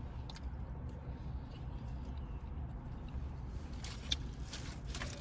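A steady low hum. About four seconds in, a run of short clicks and smacks follows, as of chewing and handling food.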